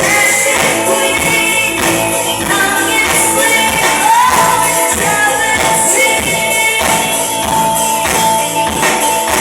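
Live band playing through a PA sound system: sung vocals over a steady beat with guitar and a bright percussive shimmer.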